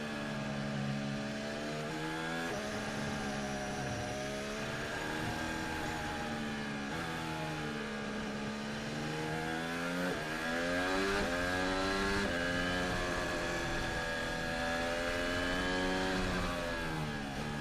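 On-board sound of a Red Bull Formula One car's 1.6-litre turbocharged hybrid V6 at racing speed. The engine note repeatedly climbs in pitch and drops away sharply as the car accelerates out of corners and brakes into the next ones.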